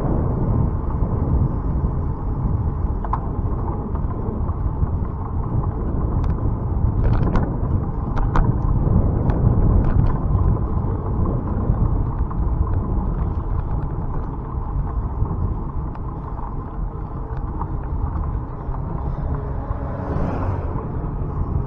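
Riding noise from a moving bicycle: steady wind rumble on the microphone and tyre noise on the road, with a few light clicks and rattles in the middle.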